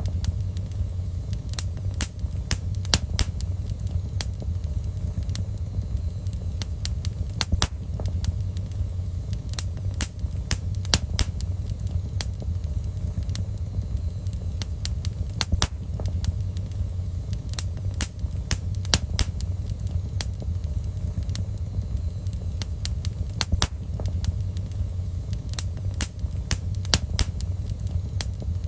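Wood fire in a fireplace crackling: frequent sharp, irregular pops over a steady low rumble.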